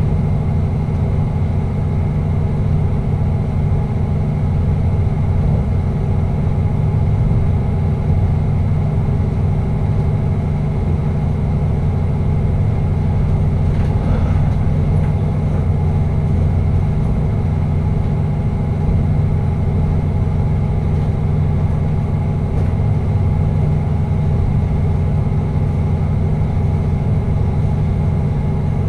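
Passenger train running at speed, heard from the driver's cab: a steady low rumble with an unchanging drone of machinery tones over it.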